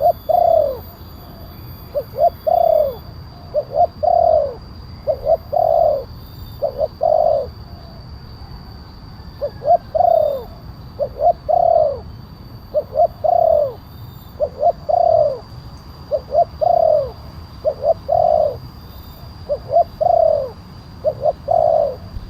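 Spotted dove (tekukur) cooing over and over, used as a lure call: each phrase is one or two short notes followed by a longer falling coo, repeating about every one and a half seconds.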